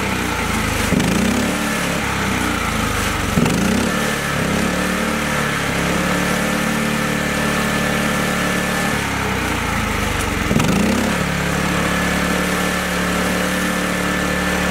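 Kubota mini tractor engine running steadily. It is revved briefly three times, about a second in, at about three and a half seconds and again near eleven seconds, each rev a quick rise and fall in pitch.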